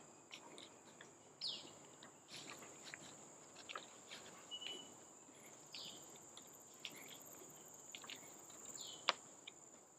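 Faint forest ambience: a steady high insect drone, with a few short bird chirps and scattered soft clicks.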